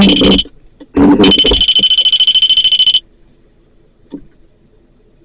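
REM pod alarm sounding: a high electronic tone, rapidly pulsing, heard briefly at the start and then for about two seconds before cutting off sharply. It is the device's alert that its field has been disturbed.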